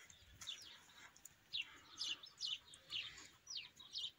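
A small bird chirping: a run of short, high, falling notes, about two a second.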